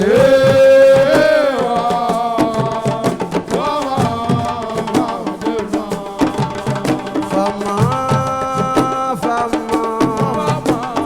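Senegalese assiko band music: fast hand-drum percussion under a held melodic line that moves in long, sliding steps, with no singing.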